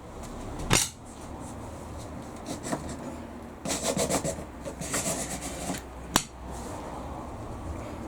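Wood scraping and rubbing against wood for a couple of seconds in the middle, with a sharp knock about a second in and another just after the scraping stops.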